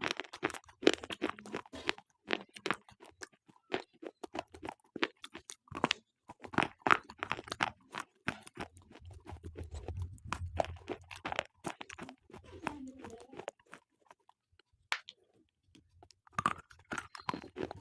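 Slate pencils being bitten and chewed close to the microphone: a long run of crisp, irregular crunches and clicks.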